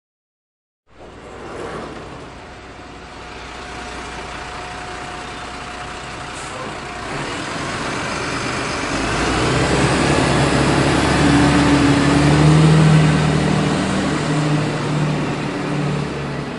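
A large vehicle's engine running, starting after about a second of silence and building steadily louder, with a low engine hum strongest past the middle.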